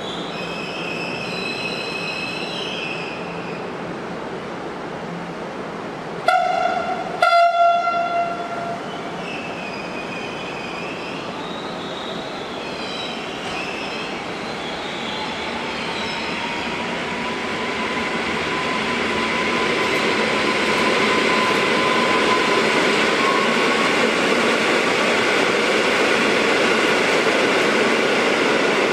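Station sounds of electric trains: a whining electric drive at first, then two short horn blasts about six and seven seconds in. From about halfway, an electric multiple unit runs in along the platform, its rumble and motor whine growing steadily louder to the end.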